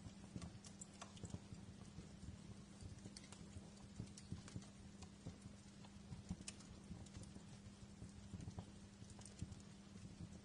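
Wood fire crackling in a fireplace: irregular small snaps and pops, a few sharper than the rest, over a soft low rumble and a faint steady hum.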